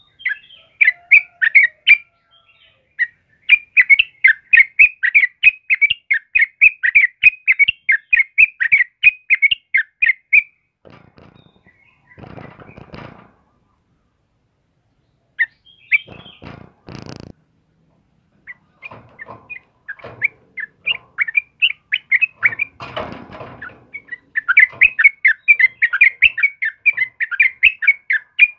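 Yellow-vented bulbul (trucukan) singing in long bouts of rapid, repeated notes, about three a second. The song pauses for a few seconds in the middle, where a few short, rougher bursts come in, then resumes near the end.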